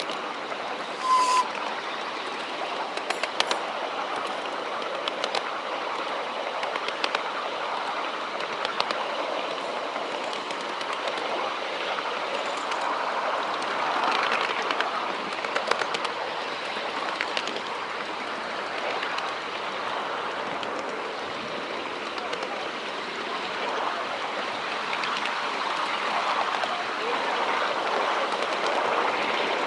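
Miniature railway train running along the track, heard from a ride-on car: a steady rumble of wheels on rails with scattered clicks from the rail joints. A short high tone sounds about a second in.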